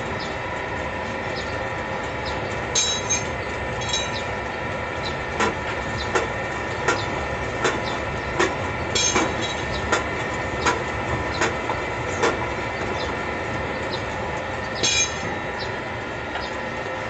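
Automatic rotary bottle rinsing machine running with a steady mechanical hum. A regular clack comes about every three-quarters of a second through the middle, with a few brighter ringing clinks of bottles.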